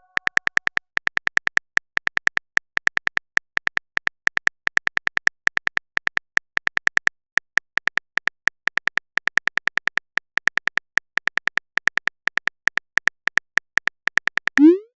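Phone keyboard typing sound effect: a fast run of short, sharp clicks, about five a second, as a chat message is typed out. Near the end comes a quick rising swoosh, the message-sent sound.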